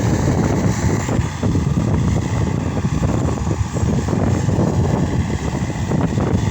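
Case SR200 skid steer loader's diesel engine running steadily and loud, with a rough, continuous low rumble.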